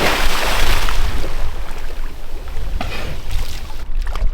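Seawater splashing and churning as a person dives in off a moored boat: the big splash fades over the first second or so into a settling wash, with a couple of smaller splashes about three seconds in.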